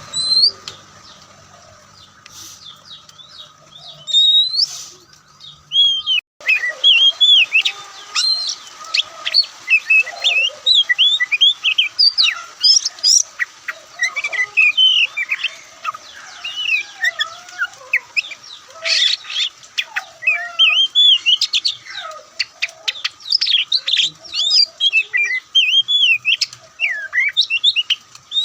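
Oriental magpie-robin singing: a few scattered whistles, then from about six seconds in a fast, loud, continuous song of varied whistles and chirps.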